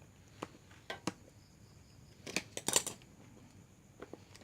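A bolt and small metal parts being handled and fitted by hand: a few separate clicks, then a short clatter of louder clicks about halfway through, and more clicks near the end.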